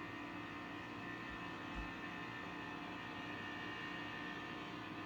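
A faint, steady hum that holds the same pitch throughout.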